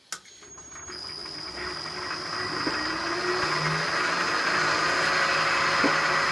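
Milling machine spindle switched on with a click, then spinning up, its motor noise rising over about four seconds and levelling off, with a steady high whine.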